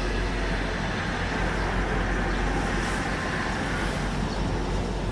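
Steady machinery noise aboard a ship, a constant low hum under an even rushing din that holds level throughout.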